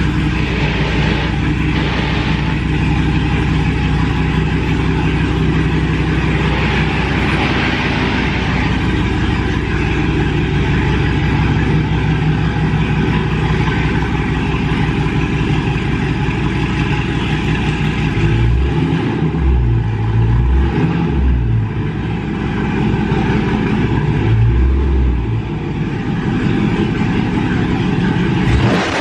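A 2019 Dodge Charger Scat Pack's 6.4-litre HEMI V8 running at idle soon after a cold start, following almost two months of sitting. The drone is steady for most of the time, with a stretch of uneven deep throbbing about two-thirds of the way through.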